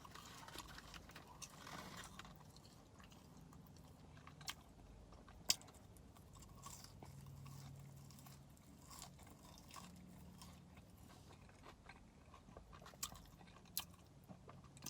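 Faint close-up chewing and crunching of fried chicken nugget bites eaten dry, with scattered small mouth clicks and one sharper click about five and a half seconds in.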